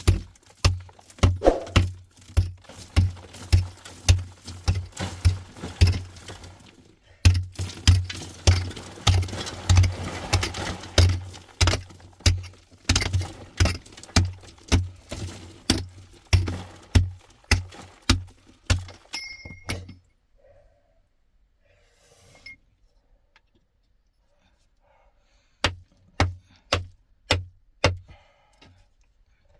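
Repeated heavy blows, about two a second, each a sharp strike with a low thud. They stop about twenty seconds in, and after a pause five more strikes come in quick succession near the end.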